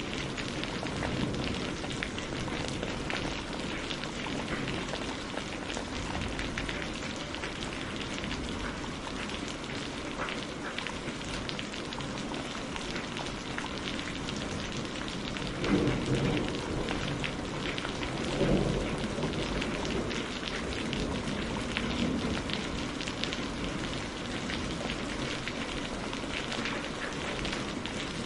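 Steady rain falling, a dense patter of drops. A little past halfway come two brief low rumbles, a couple of seconds apart, like distant thunder.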